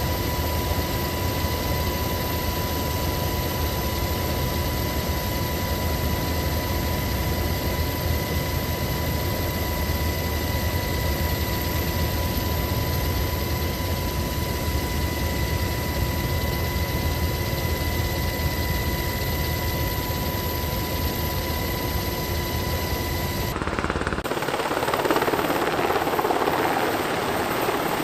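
Aircraft running steadily: a continuous whine over a low rumble. About 24 seconds in it cuts abruptly to a louder rushing noise without the rumble.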